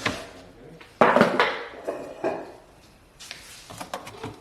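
Kitchen containers and dishes being handled and set down, with a sharp clatter about a second in, another just past two seconds, and lighter knocks near the end.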